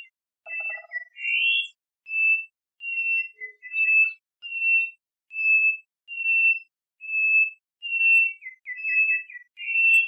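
A songbird singing a steady series of clear whistled notes on one pitch, about one every three-quarters of a second, with a rising slurred note about a second in and a quick run of notes near the end.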